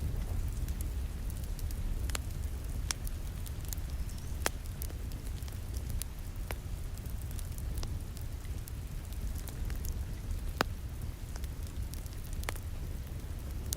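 Wood fire crackling, with sharp pops scattered irregularly over a steady low rumble, mixed with the even hiss of rain falling against a window. The loudest pop comes about two-thirds of the way through.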